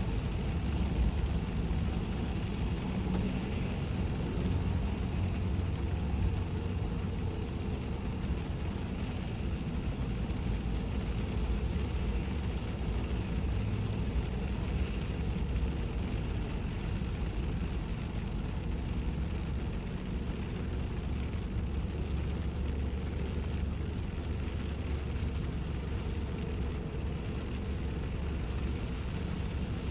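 Steady road and engine rumble of a car driving in the rain, heard from inside the cabin with the windows up.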